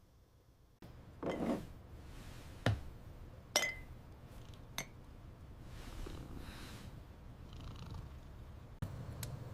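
A domestic cat purring steadily, starting almost a second in, with a few light clicks and clinks over it.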